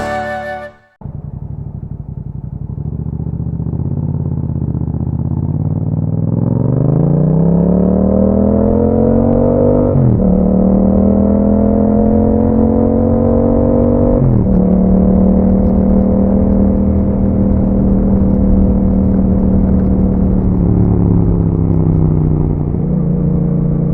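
2021 Yamaha MT-07's parallel-twin engine through an Akrapovič exhaust, on the move. After a steady stretch it rises in pitch as the bike accelerates, drops sharply at two upshifts about ten and fourteen seconds in, then holds a steady cruise.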